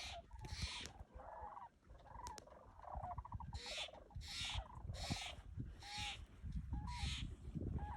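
A flock of migrating birds calling in the distance: a string of short, pitched calls, about one a second, along with soft bursts of hiss.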